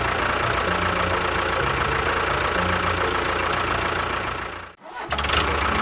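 An engine idling steadily. It cuts out abruptly for a moment about three-quarters of the way through, then resumes.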